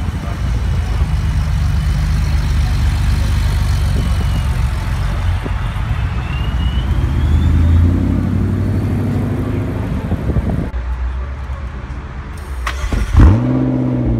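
Car engines running at low revs as cars pull slowly past at close range, first a white classic Porsche 911 and then a red Ford Mustang, with a swell as the Mustang goes by. Near the end a McLaren 12C's engine is revved once, a sharp rise in pitch that settles back to idle.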